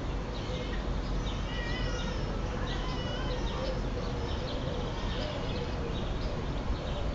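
Small birds chirping in short, repeated warbling phrases over a steady low rumble.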